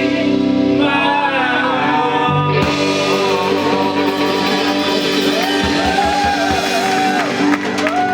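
Live rock band with electric guitar, bass and drums holding a chord while voices sing over it, in a large room.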